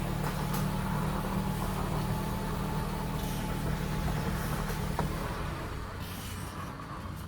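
A car engine idling steadily, its low hum easing off about five seconds in.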